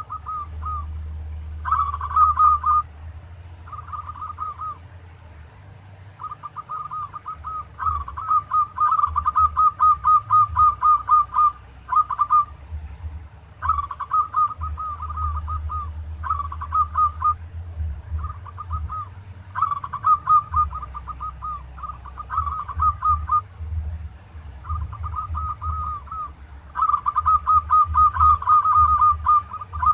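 Zebra dove (perkutut) cooing in phrases of rapid staccato notes, some short and some running for several seconds, with a low hum underneath.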